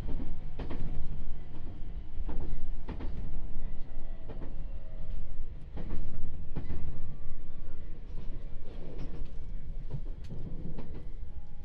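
Running noise inside a JR East 701 series electric train: a steady low rumble of wheels on rail, with irregular clacks a few times a second as the wheels cross rail joints.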